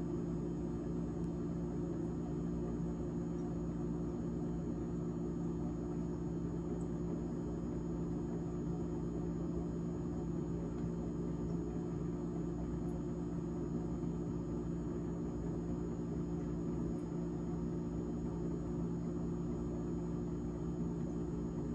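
GE refrigerator's fan running, a steady droning hum with a few held pitched tones and no change in level.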